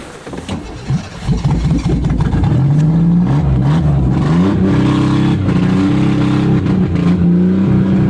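Cold Ford car engine revving: about a second in its pitch climbs, drops back and climbs again, then it holds a steady fast idle.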